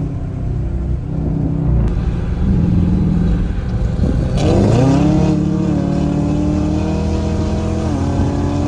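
Dodge Charger R/T's 5.7-litre Hemi V8 under way. The engine note dips about four seconds in, then climbs and settles into a steady drone.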